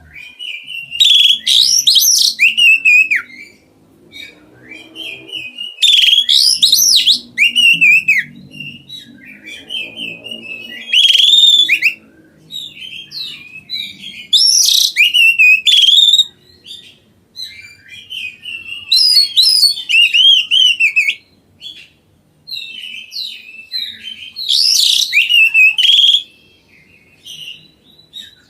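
Oriental magpie-robin singing loudly in bouts every four or five seconds, each a rich run of varied whistles and trills, with softer warbling between them.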